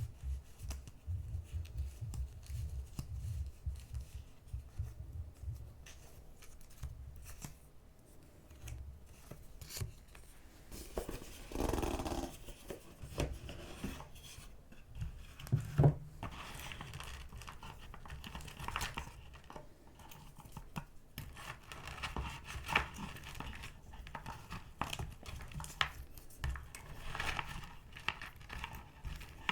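Close-up paper crafting sounds: paper being cut, torn and rustled, with quick small taps at first, a longer tearing rasp near the middle and one sharp knock just after it.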